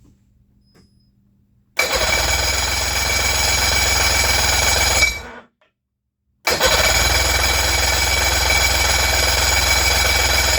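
Electric starter of a two-stroke Johnson outboard, worked from the key switch, cranking the engine in two long steady spells of about three and a half and four seconds. The engine does not catch, and each spell cuts off suddenly.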